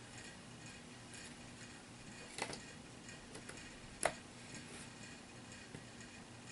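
Faint, irregular light clicks and taps from handling small plastic game pieces and cards, with two sharper clicks about two and a half and four seconds in.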